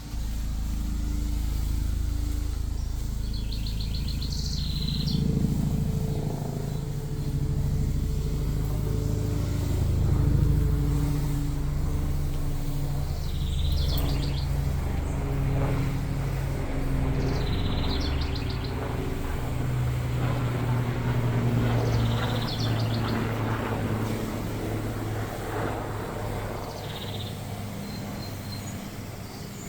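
A steady engine hum whose pitch shifts slightly around twenty seconds in, with a bird giving a short trilled chirp every few seconds, about six times.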